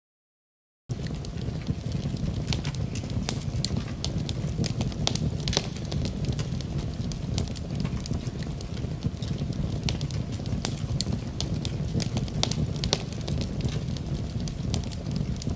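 Wood fire crackling and popping in a fireplace, many sharp snaps over a steady low rumble, cutting in suddenly about a second in after silence.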